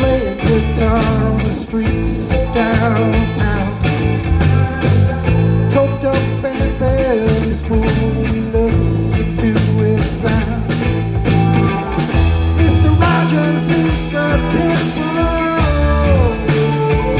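Live band playing a bluesy rock passage between sung lines: guitar over a stepping bass line and drums.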